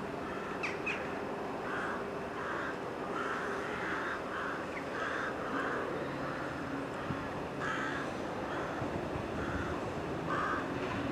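A bird calling over and over in short, harsh calls, about a dozen in all, over a steady low hum.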